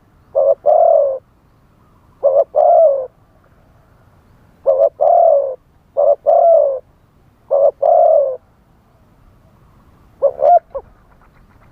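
Spotted dove cooing: six phrases a second or two apart, each a short coo followed by a longer one. The last phrase, near the end, is shorter and broken into quick pulses.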